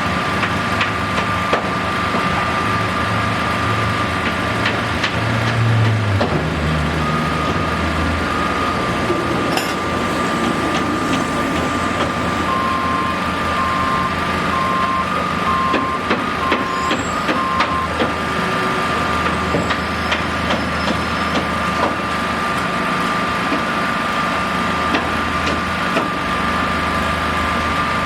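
Heavy vehicle engine running with a reversing alarm beeping about six times near the middle, over a steady high whine and scattered knocks.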